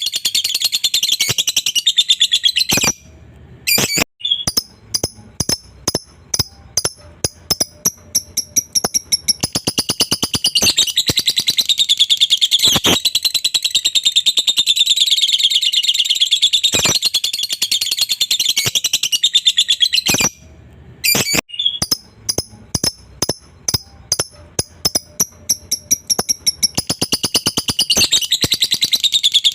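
Lovebird ngekek: a long, shrill, rapid chattering trill. It breaks off twice, and each time comes back as separate chirps that quicken into an unbroken trill again.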